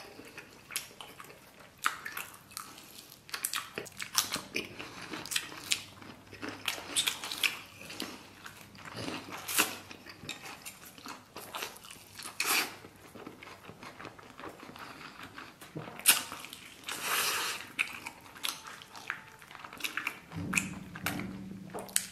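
Close-miked eating of a lamb chop: repeated wet biting, chewing and lip-smacking as meat is pulled off the bone, in many short, uneven smacks and clicks.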